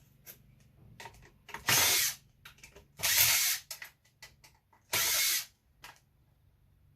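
Power drill run in three short bursts of about half a second each, with light clicks of handling between them.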